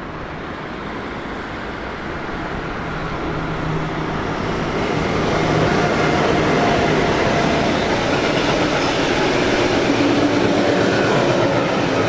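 A train approaching, growing louder over the first five or six seconds, then passing close by with a steady loud rush of wheels on rails and faint humming tones.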